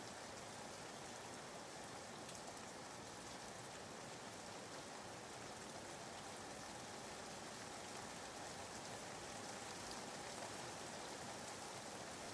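Steady, soft rain ambience: an even hiss of rainfall with fine patter of drops on a surface, used as background white noise.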